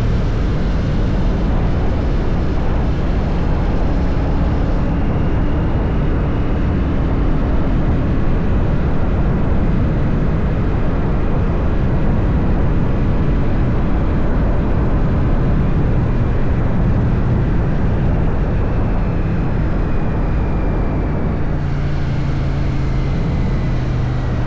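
Royal Enfield Shotgun 650's parallel-twin engine running steadily at cruise, under a heavy rush of wind noise.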